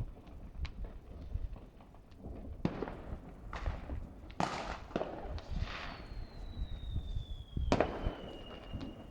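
Distant New Year's fireworks: a run of bangs and crackles, with louder reports about three, four and five seconds in and the loudest bang near eight seconds. Through the second half a long thin whistle slides slowly down in pitch.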